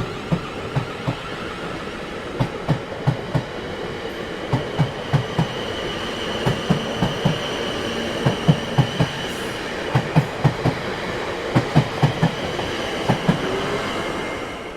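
Railway train wheels clattering over rail joints, in quick groups of clacks repeating every second or two over a steady rumble. A thin high wheel whine runs underneath and is strongest in the middle.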